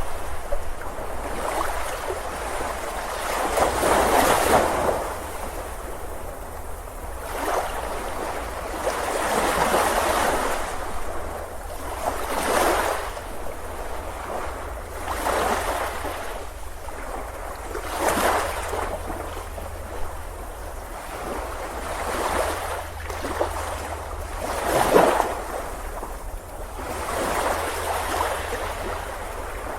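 Surf breaking and washing up on a beach: a rushing hiss that swells and falls about every three seconds, over a steady low rumble. The loudest wave comes near the end.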